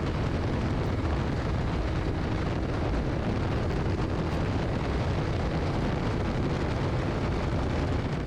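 Bajaj Dominar 400 motorcycle cruising at highway speed: the steady drone of its single-cylinder engine mixed with heavy wind rush over the microphone.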